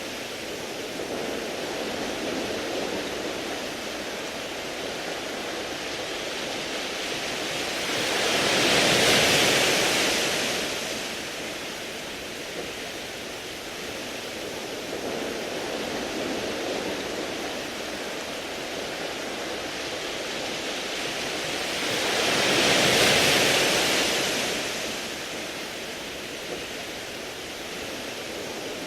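Sea waves washing onto a beach of round pebbles: a steady wash that swells twice into a bigger wave, about nine seconds and twenty-three seconds in, each rising and fading over a few seconds.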